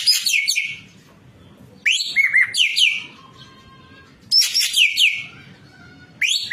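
Ekek keling bird calling in loud bursts of quick, falling whistled notes, each burst about a second long. The bursts come about every two seconds, with a fourth one starting near the end.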